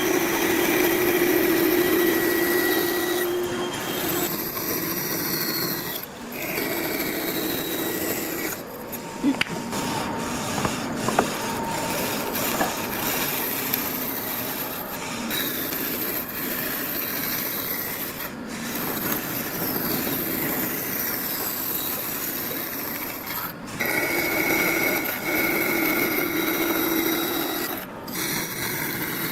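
A power tool working wood, running with a steady hum and whine and a rough grinding noise. It stops briefly several times and starts again.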